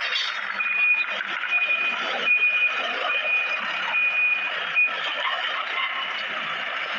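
A heavy vehicle's reversing alarm beeping at a steady high pitch, about six beeps roughly 0.8 s apart, stopping about five seconds in, over continuous machinery noise.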